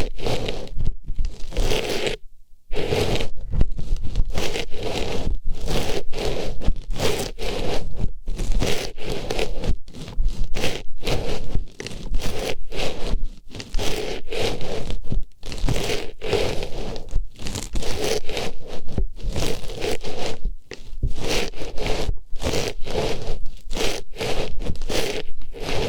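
Artificial flower rubbed and pushed into a microphone's ear, close-up scratchy rustling and scraping in rapid repeated strokes with short breaks between them.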